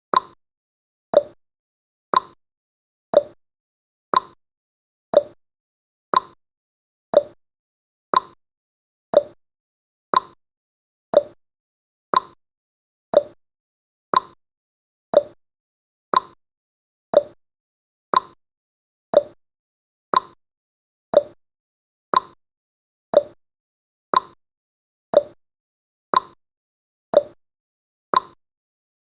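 Countdown timer's clock-tick sound effect: one short, sharp tick each second, steady and evenly spaced.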